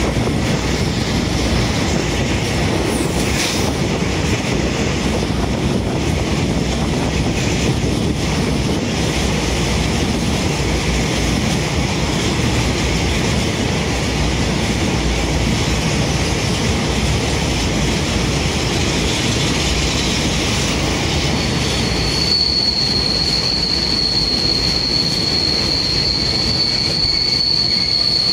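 Wagons of a long intermodal container freight train rolling past on the rails, a steady rumble of wheels and running gear. About three-quarters of the way through, a high, steady wheel squeal sets in and keeps going.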